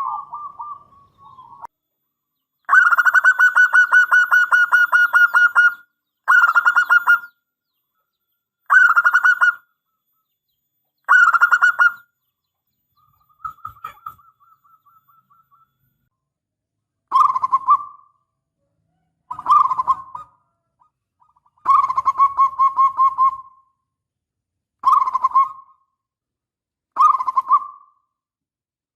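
Zebra dove (perkutut) cooing: a run of about ten rapid, trilling coo phrases. The first lasts about three seconds, most of the others about a second, and a fainter one comes about midway.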